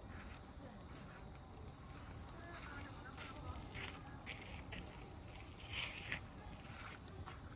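Wood campfire crackling, with scattered sharp pops and a louder cluster of pops about six seconds in. Children's voices murmur faintly in the distance.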